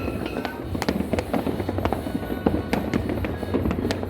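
Fireworks and firecrackers going off without pause: a dense, irregular stream of sharp bangs and crackles, some close and loud, others farther off, with faint music under them.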